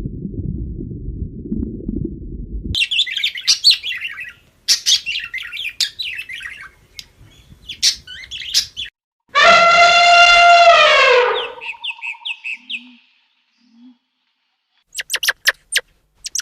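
Birds chirping and twittering in quick, high calls, after a low rumbling noise that stops abruptly a few seconds in. Midway comes one loud, long, strongly pitched call of about two seconds that falls in pitch as it ends, and a few sharp clicks sound near the end.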